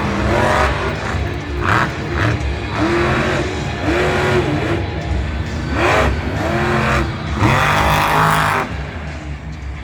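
Monster truck engines revving hard again and again, pitch swooping up and down, with bursts of harsher noise as the throttle is blipped.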